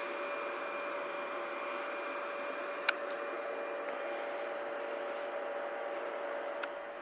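A train running steadily through the station: an even rushing noise with several steady held tones and one sharp click about three seconds in.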